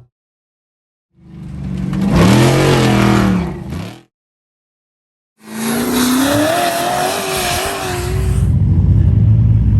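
Off-road race truck engines revving as they drive past, heard in two short cuts with dead silence between them. In the first, about a second in, the engine note rises and falls as a truck goes by. In the second, about halfway through, the note climbs and then wavers.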